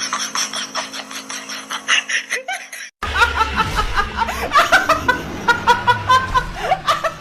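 People laughing in quick repeated bursts. The sound breaks off abruptly about three seconds in, and laughing starts again straight after in a different clip.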